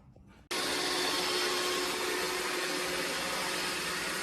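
A steady whirring, motor-like noise with a faint hum in it, starting abruptly about half a second in.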